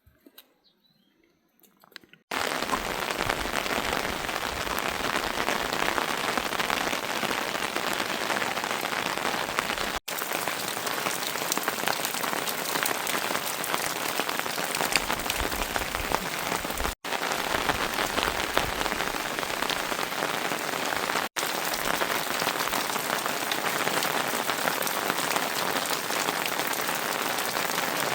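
Steady rain falling, a dense even patter of drops. It starts abruptly about two seconds in after near silence and cuts out for an instant three times, like edits between shots.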